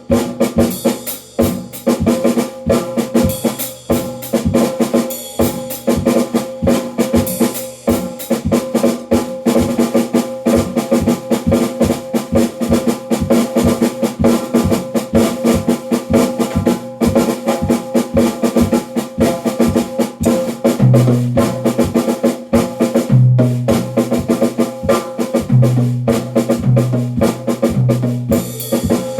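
Drum kit played in a fast, unbroken pattern of dense strokes with snare and bass drum. Deeper notes come in repeatedly in the last third.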